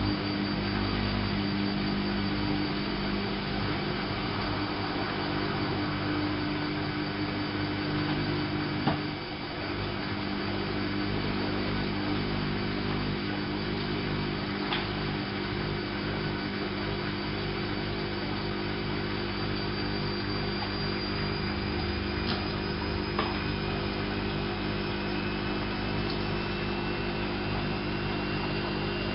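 Whirlpool AWO 5346 washing machine running with a steady motor hum. A faint high whine slowly rises in pitch over the second half. There is a brief knock and dip about nine seconds in, and a few faint clicks.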